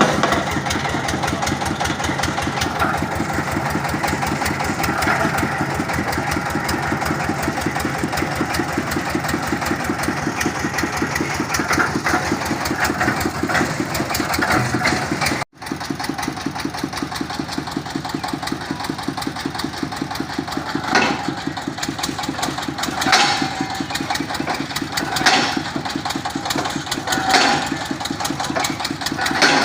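Engine of a water-well boring rig running steadily with a fast, even beat. In the later part a sharper noise, loudest in the upper range, repeats about every two seconds over the engine, and the sound cuts out for a moment about halfway through.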